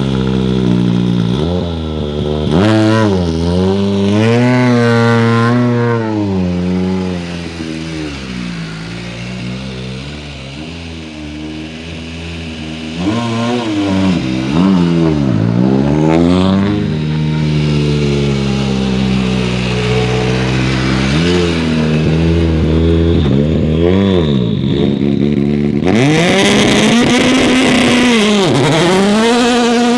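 Hyundai i20 Coupe WRC rally car's turbocharged four-cylinder engine driven hard, its note climbing and dropping again and again through gear changes and lifts. Near the end a loud rush of noise joins in as the car passes close.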